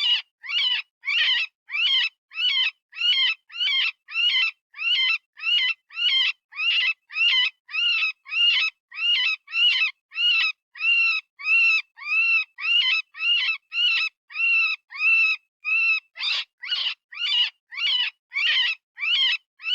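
Rabbit distress call, software-generated: a high, shrill scream repeated in short, arching cries about one and a half to two times a second. It is the cry of a rabbit in pain or fear, the sound used to call in predators.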